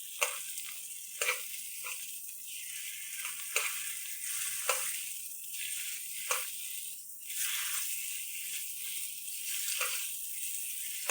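Thin beef slices frying in a pot greased with beef tallow: a steady sizzle broken by a few sharp pops of spattering fat.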